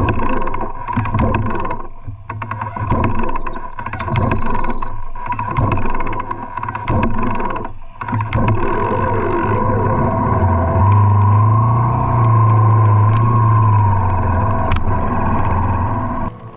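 Motorcycle engine and road noise, uneven for the first half, then running steadily from about eight seconds in until it drops away just before the end. A short high-pitched beep sounds about four seconds in.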